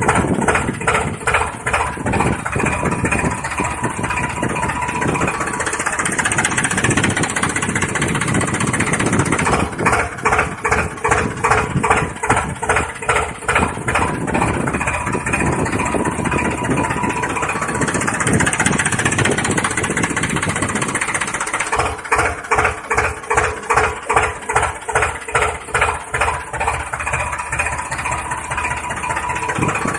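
Tractor engine running with a steady chugging beat that grows stronger and eases off at times.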